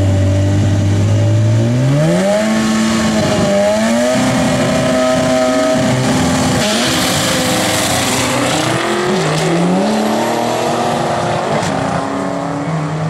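2003 Ford Mustang SVT Cobra's supercharged 4.6-litre V8 holding steady revs at the starting line, then launching for a quarter-mile drag run about two seconds in. The engine note climbs and drops back at each upshift as the car pulls away down the track.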